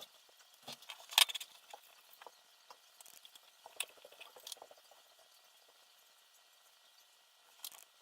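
Small clicks and light rattling from parts being handled during the frame assembly, with a sharp click about a second in and another near the four-second mark.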